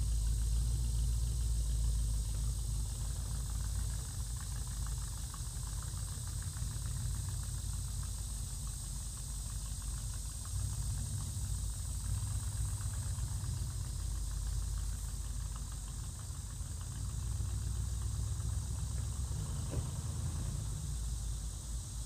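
1946 GMC truck's 327 V8 running, a continuous low engine rumble through headers and cherry bomb mufflers.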